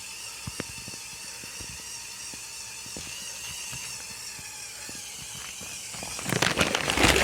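Lego Technic tractor's small electric motors whining steadily at a high pitch, with scattered light clicks, as it pulls the weighted sled. About six seconds in, a loud rough scraping rush takes over.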